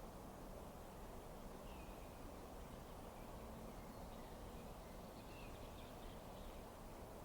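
Low, steady rushing background noise with a few faint, short bird chirps, about two seconds and five and a half seconds in.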